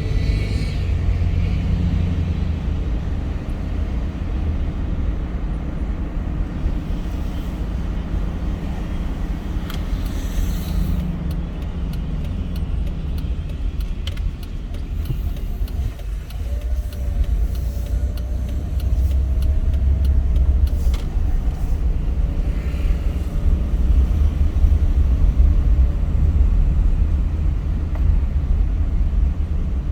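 A car driving along, with the steady low rumble of engine and tyres on the road.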